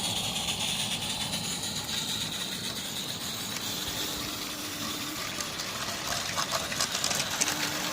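Live steam garden-scale locomotive running with a steady hiss of steam, with light clicks near the end.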